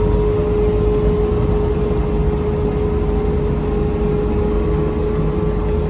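Vehicle driving along at a steady speed: a steady low rumble with a constant whine held on one pitch.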